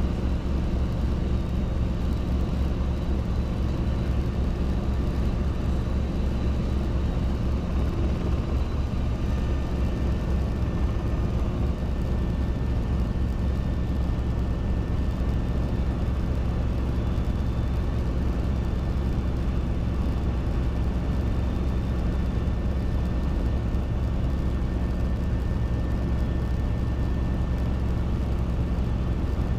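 Robinson R22 helicopter's piston engine and two-blade rotor running steadily: a constant drone with a fast, even rotor beat underneath.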